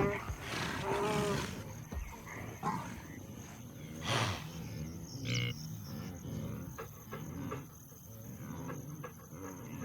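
A wildebeest bellowing near the start, then scattered animal grunts, growls and scuffling as cheetahs grapple with it.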